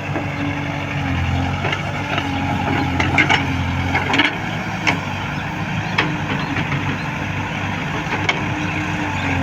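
Heavy diesel engine running steadily, with a run of sharp knocks and clanks from about a second and a half in to about six seconds in.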